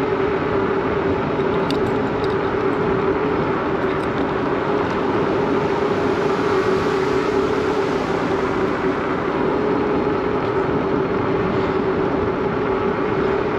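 Steady rushing noise of riding a bicycle, wind on the microphone and tyres rolling, with a constant droning tone underneath.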